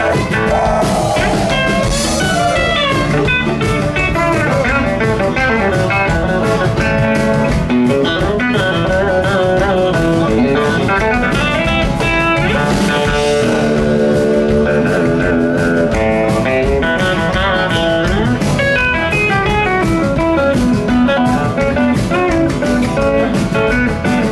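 Live band playing an instrumental break: a guitar lead with bending notes over drums and bass.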